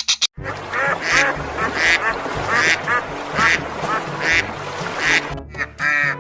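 Duck quacking repeatedly, a quack about every three quarters of a second, over background music with a steady bass line.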